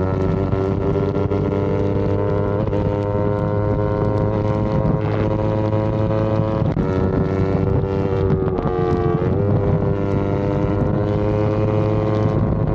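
Yamaha R25's parallel-twin engine running under way at fairly steady revs, with wind on the microphone. The engine pitch sags briefly about eight seconds in, then climbs again.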